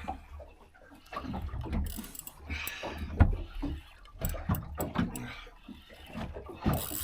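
Irregular knocks, clunks and rustles of fishing gear being handled on a small boat, over a steady low rumble. One sharp knock about three seconds in is the loudest sound.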